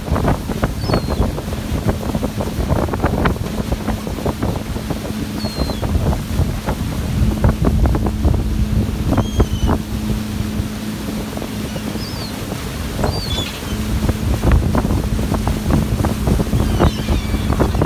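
Wind buffeting the microphone over a steady low boat-engine hum, with gulls giving short high cries again and again throughout.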